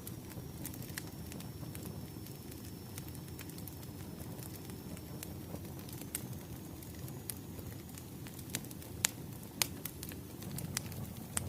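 Firewood burning and crackling: irregular sharp pops and snaps, a few louder ones near the end, over a low steady rumble of the fire.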